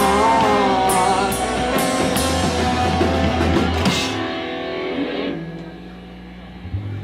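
Live band playing the close of a song with no vocals: full band with crashing cymbals until about four seconds in, then the last notes ring on and fade away.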